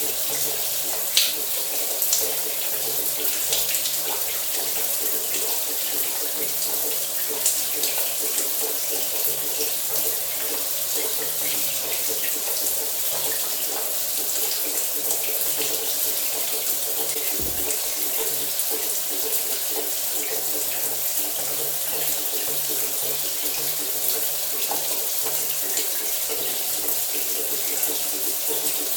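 Shower water running steadily and spattering, a continuous even hiss with a few small splashes.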